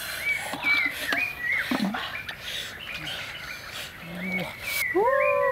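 Birds chirping in short high calls that rise and fall, a run of them in the first second and a half and more about four seconds in. Near the end comes a louder, lower pitched call that wavers in pitch.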